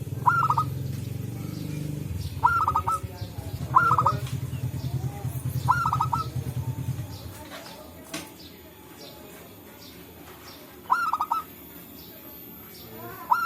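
Zebra doves (perkutut) cooing: short phrases of quick, rolling notes, repeated every second or few, one bird answering another. A low, evenly pulsing hum sounds beneath them and stops about seven seconds in.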